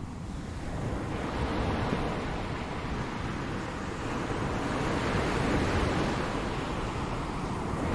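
Ocean surf: waves washing in and drawing back in a steady, swelling rush, one wave building through the middle and the next surging in near the end.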